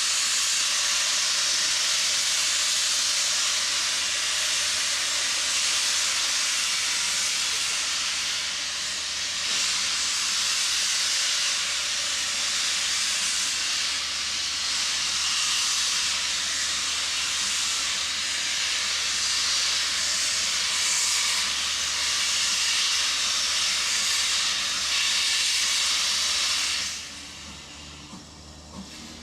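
Steam hissing loudly and steadily from the Ivatt Class 2 2-6-2T tank engine BR 41313, with no exhaust beat, cutting off abruptly about 27 seconds in.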